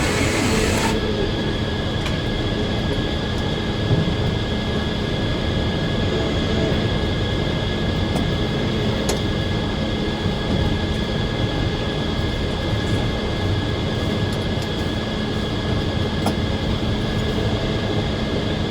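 Circular sawmill running steadily: a constant machine drone with a few steady whining tones, heard from inside the operator's cab.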